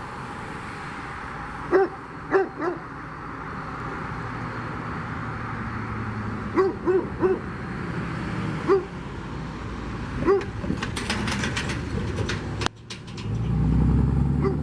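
Short animal calls, singly or in quick groups of two or three, over a steady background rumble. Near the end a vehicle engine comes up loud.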